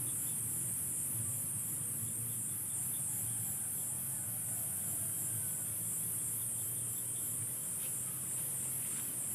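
High-pitched chorus of insects, a steady fast pulsing shrill with a low rumble underneath.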